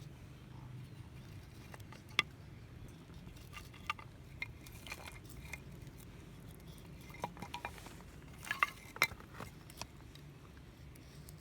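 Light clinks and taps of metal camp cookware and utensils being handled, scattered and irregular, with a cluster of sharper clinks late on.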